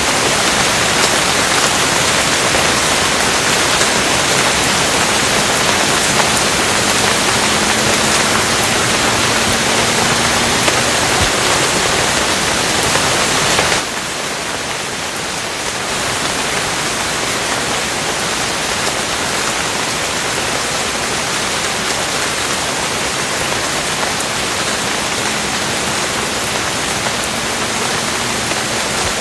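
Steady heavy rain, a dense even hiss of falling drops. About fourteen seconds in it drops abruptly to a slightly quieter level and carries on.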